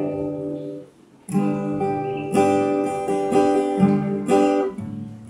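Acoustic guitar strumming chords, each one left to ring, with a brief stop about a second in before the strumming resumes.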